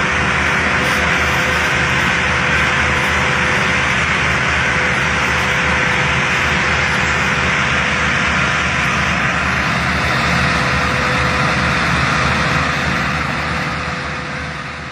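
Tractor diesel engine running steadily, a low pulsing drone with heavy mechanical noise, fading out near the end.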